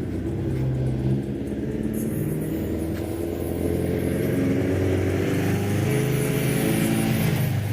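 Motorcycle engine running under way, its pitch stepping up and down several times with the throttle. A rushing hiss comes in about two seconds in and stays.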